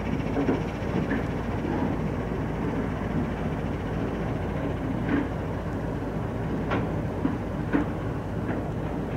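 Norfolk Southern freight train crossing a low river bridge: a steady low rumble from the locomotive and its wheels, with a few sharp clanks in the second half.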